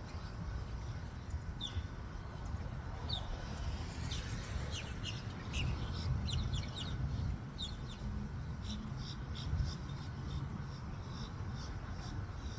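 Small birds chirping: runs of short, high chirps that grow busier partway through, over a low steady rumble.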